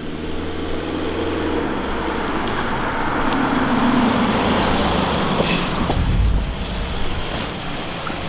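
Car engine running, then the car pulling away and gathering speed, with road and wind noise swelling; a heavy low rumble comes in about six seconds in.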